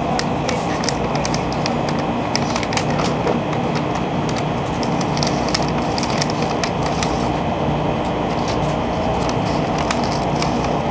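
Inside a Shinkansen carriage pulling out of the station: the train's steady running rumble and hum, with many small sharp clicks and crackles scattered over it.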